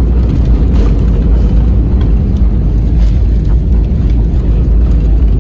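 Airliner cabin noise: a loud, steady, deep rumble of engines and rushing air heard from inside the aircraft on final approach.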